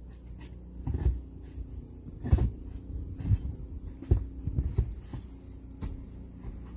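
Irregular dull thumps and scuffs, roughly one a second, over a faint steady hum.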